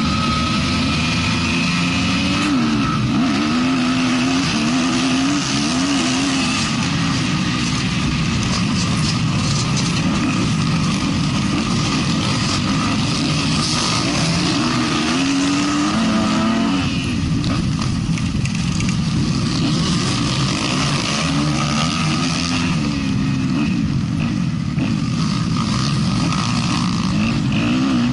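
Motocross bike engine running hard, its pitch rising and falling repeatedly as the throttle is opened and closed.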